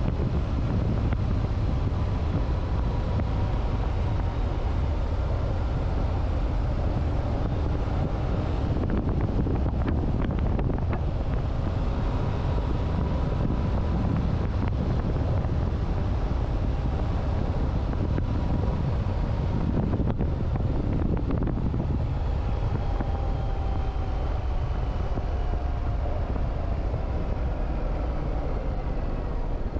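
Heavy wind rumble on the microphone, with a motorcycle engine running at road speed underneath, its note drifting slowly up and down.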